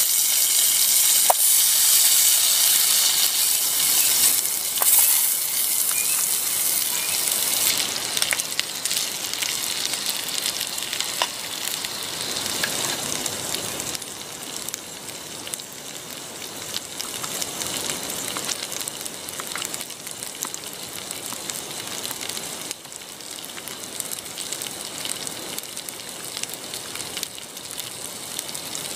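Chunks of boiled potato frying in a small pan on a canister gas stove, sizzling. The sizzle is loudest at first, drops after about eight seconds and settles to a quieter, steady sizzle, with a few light clicks.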